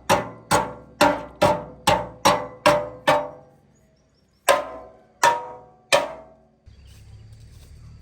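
A hammer striking steel in a quick, even run of about eight ringing blows, then, after a short pause, three slower blows. Near the end a steady low hum starts.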